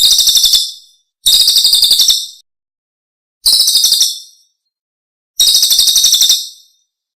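Recorded songbird song used as a training master: four short, high-pitched trills of rapid repeated notes, each about a second long, separated by clean silent gaps.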